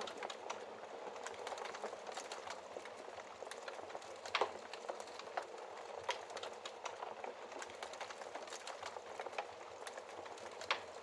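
Wood-burning fire crackling, a steady hiss studded with frequent small snaps, with a louder pop about four seconds in and another near the end.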